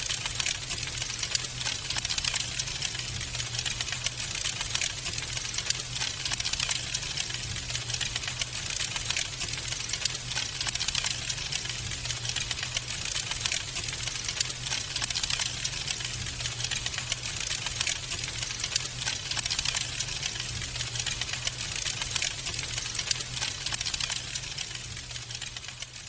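Wood fire crackling in a fireplace: a dense, steady run of small pops and snaps over a soft hiss, with a faint low hum underneath.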